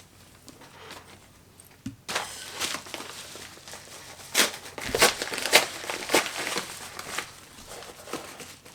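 Parcel packaging being handled and torn open: crinkling and rustling that starts about two seconds in, with several sharper tearing crackles in the middle.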